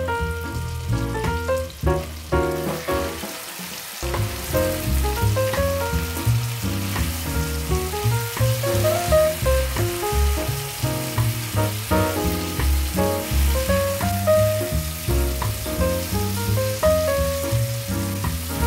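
Red chili balado paste sizzling in a frying pan while it is stirred with a spatula, with background music and a rhythmic bass line throughout.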